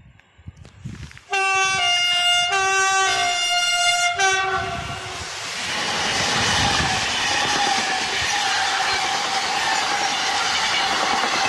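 SNCF BB 26000-class electric locomotive sounding its horn in several short blasts as it approaches. About five seconds in it reaches the platform and runs through hauling a freight train: a loud steady rush of wheels on rail with a steady whine.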